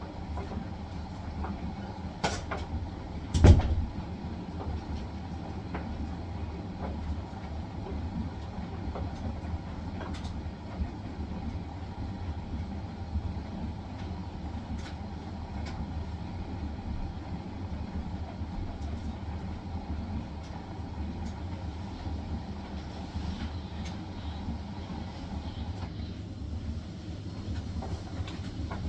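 Hisense washing machine on its spin cycle: a steady low rumble from the spinning drum with a steady whine that cuts out a few seconds before the end. A single loud thump about three and a half seconds in, with scattered light clicks.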